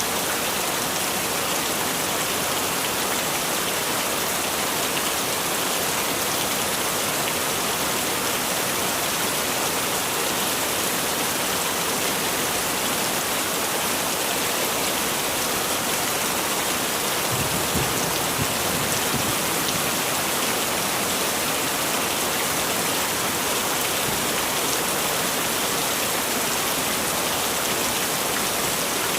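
Heavy rain falling steadily, a dense even hiss of drops, with a brief low rumble about two thirds of the way through.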